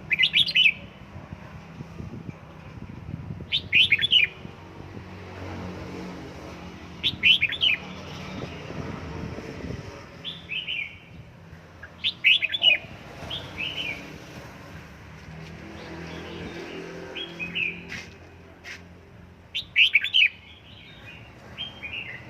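Red-whiskered bulbul singing short, bright song phrases every few seconds: about five loud phrases, with softer chirps between them.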